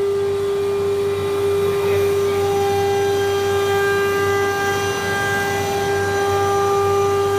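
COSMEC FOX CNC nesting router's spindle running at steady speed: a constant high whine with a ladder of overtones over a steady low hum.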